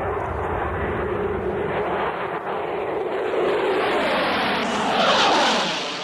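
An aircraft passing by, its engine noise building to its loudest about five seconds in and then starting to fade, with the sweeping pitch of a flyby.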